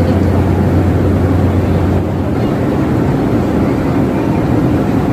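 Steady drone of a large passenger ship under way: a low engine hum under a constant rush of noise. The hum eases about two seconds in.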